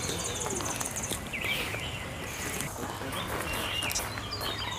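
Small birds chirping, a few short calls that bend up and down in pitch, scattered through a steady outdoor background.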